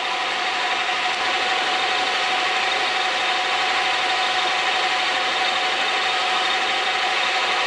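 Metal lathe running, its chuck spinning a milling cutter through a workpiece on a milling attachment under power feed: a steady whir and hiss with a steady mid-pitched whine.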